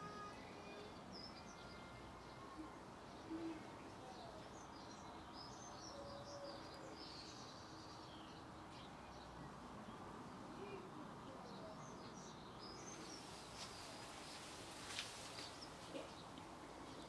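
Faint songbird chirps and calls over a low steady background hiss, with a couple of brief clicks.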